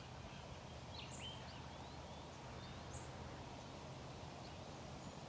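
Birds chirping a few times, each call short and high, over quiet outdoor background with a steady low rumble.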